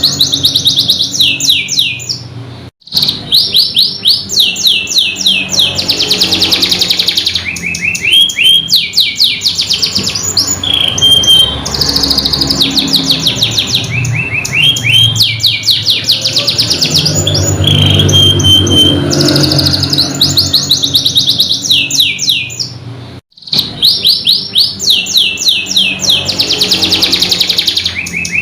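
Domestic canary singing long, rapid rolling trills of quickly repeated high notes, with a few clear whistled notes between them, over a low steady sound. The song breaks off abruptly for a moment twice, a few seconds in and again near the end.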